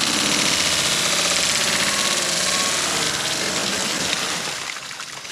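Heavy rain drumming and pattering on hard surfaces in a dense, loud hiss that thins out near the end.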